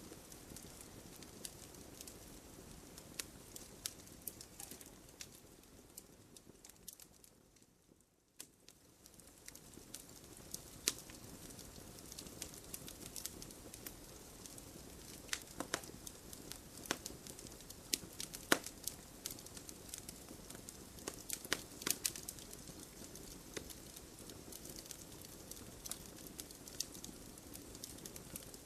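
Fireplace fire crackling, with frequent sharp pops and snaps over a soft steady hiss. The sound dips almost away for about a second around eight seconds in, then resumes.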